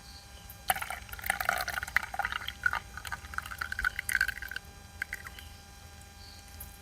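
Hot black tea being poured into a cup, a trickling pour that starts about a second in and lasts about four seconds, followed by a few light clinks.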